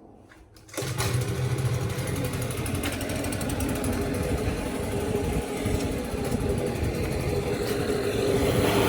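Compressed air blasting from an open air hose with no nozzle fitted: a loud, rushing hiss with a low rumble that starts abruptly about a second in and runs on for about eight seconds.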